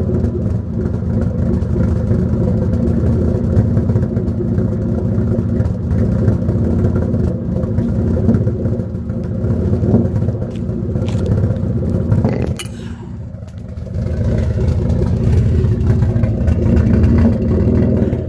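Turbocharged 2.7-litre V6 of a 2005 Hyundai Tiburon GT running through a freshly built custom exhaust on one of its first starts. The engine is still untuned and has a vacuum leak yet to be fixed. The engine note is steady and loud, drops away briefly about two-thirds through, then comes back up.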